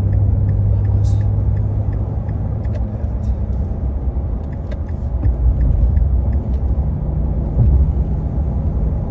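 Car driving along a road, heard from inside the cabin: a steady low rumble of engine and tyre noise, with a light regular ticking during the first three seconds or so.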